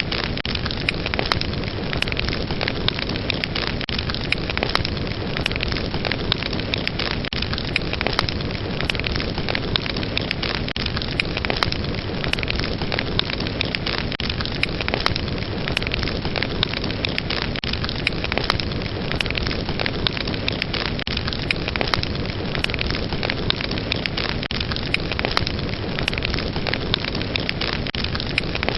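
Fire burning in a fireplace, crackling: a steady hiss of flames with frequent small pops and snaps.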